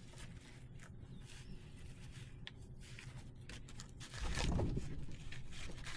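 Split firewood being handled and stacked: scattered light knocks and scrapes of logs, then a louder rustling, rumbling noise about four seconds in.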